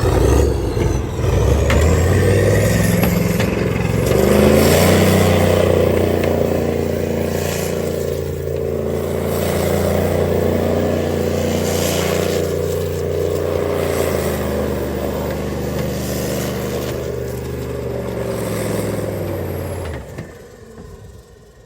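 V8 truck engine held at full throttle, revving up over the first few seconds and then running steadily at high revs before stopping abruptly near the end.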